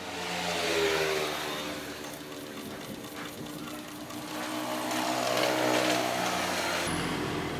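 An old Standard sewing machine running, speeding up and slowing down twice, its pitch rising and falling with the speed.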